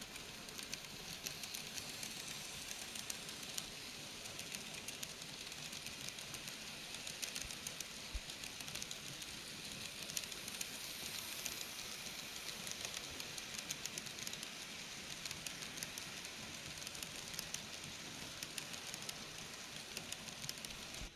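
N gauge model train running on the layout's track: a steady high hiss with many small, irregular clicks.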